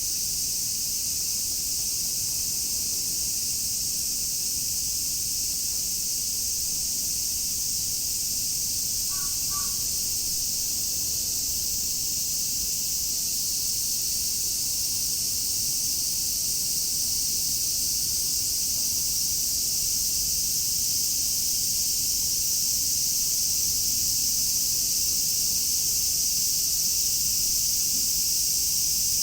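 A dense chorus of cicadas keeps up a continuous shrill, high-pitched drone that swells slightly louder toward the end. A faint short call is heard about nine seconds in.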